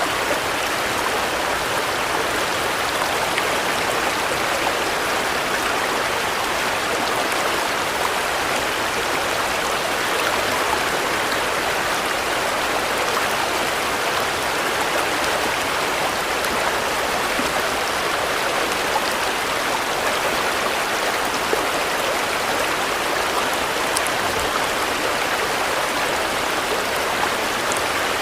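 Steady rainfall: an even, unbroken hiss of rain with a few faint individual drop ticks.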